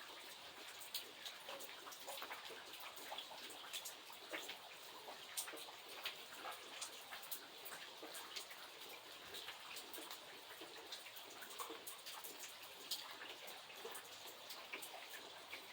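Steady, fairly faint rain, with many individual drops striking close by as sharp irregular ticks over a soft hiss.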